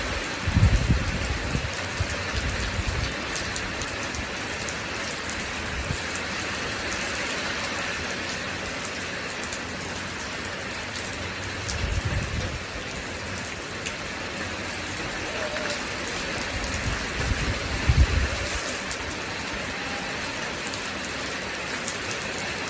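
Steady rain falling, with low rumbles of distant thunder swelling about a second in, again around twelve seconds in, and most strongly around eighteen seconds in.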